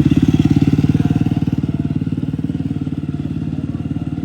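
Motorcycle engine running at low revs close by, a fast, even train of firing pulses. It is loudest at the start and eases slightly through the rest.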